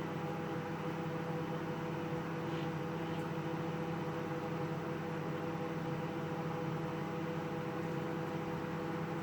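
Microwave oven running with a steady hum and fan noise while heating a bag of microwave popcorn, before the kernels have started popping.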